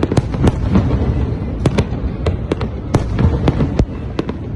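A fireworks display: aerial shells bursting in a rapid, irregular string of sharp bangs, about three or four a second, over a continuous low rumble.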